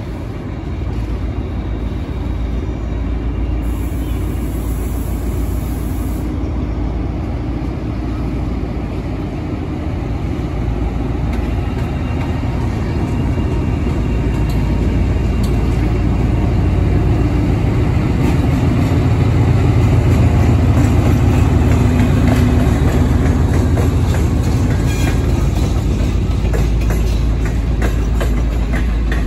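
Train running by: a steady low rumble that grows to its loudest about two-thirds of the way through, with a scatter of light clicks in the second half.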